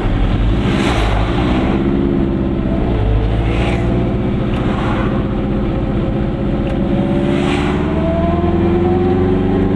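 Goggomobil's small two-stroke twin-cylinder engine pulling the car along, its pitch rising as it accelerates. The pitch dips about three seconds in, then climbs again steadily, with a few brief rushes of noise along the way.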